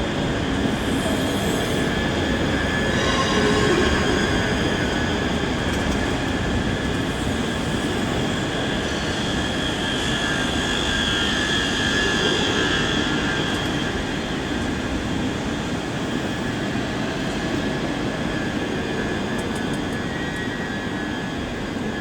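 ScotRail Class 385 electric multiple unit pulling slowly into the platform: a steady rumble of the train with a high whine running through it. It is loudest a few seconds in and eases slightly in the second half as the train slows.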